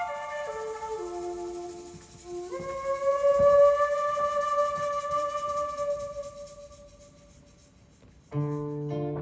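Solo flute playing a descending run of notes, then one long held note that slowly fades away. Near the end, plucked strings come in with low, ringing notes.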